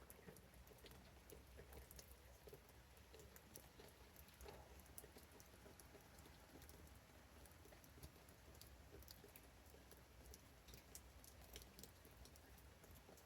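Faint, irregular patter of raindrops ticking onto leaves and plants, over a low steady rumble.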